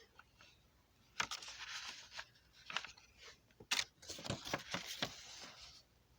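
Irregular crackling, rustling noise with a few sharp clicks, coming in uneven spurts from about a second in until near the end.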